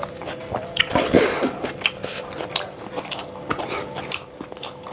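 Close-miked chewing of a handful of rice, with many irregular mouth clicks and smacks and a louder cluster about a second in.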